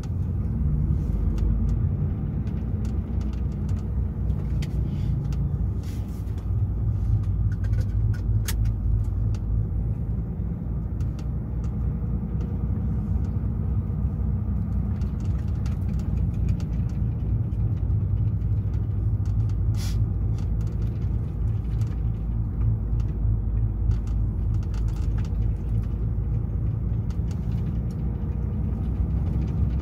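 DAF XF 480 truck under way: steady low rumble of its six-cylinder diesel engine with road noise. There are a few short clicks, one about eight seconds in and another about twenty seconds in.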